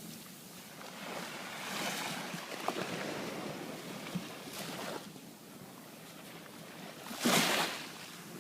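Sea waves washing on the shore, with wind on the microphone. Swells come and go, and there is one short, much louder rush about seven seconds in.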